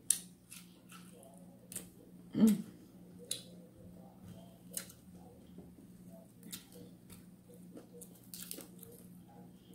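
Close-up eating sounds of a person chewing chicken: wet mouth clicks and lip smacks scattered throughout. About two and a half seconds in comes a brief, louder hummed "mm". A faint steady low hum runs underneath.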